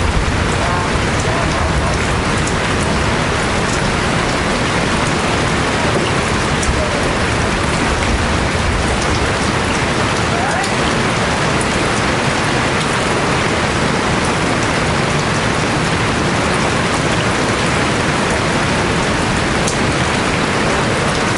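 Steady rain falling, an even unbroken hiss of drops on surfaces.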